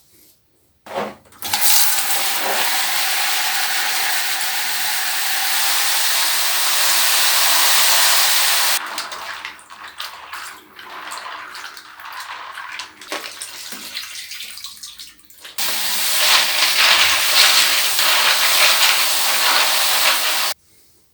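Tap water running and splashing over a keyboard being washed. It runs steadily for about seven seconds, then gives way to several seconds of uneven splashing and clatter. Then it runs steadily again and cuts off shortly before the end.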